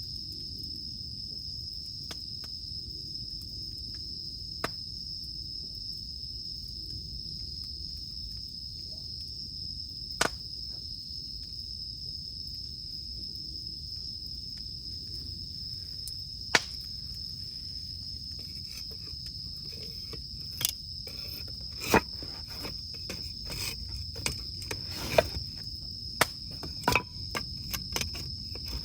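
Cicadas droning steadily at a high pitch over a crackling campfire. The fire gives a few lone sharp pops in the first half, then frequent pops and snaps through the last eight seconds or so.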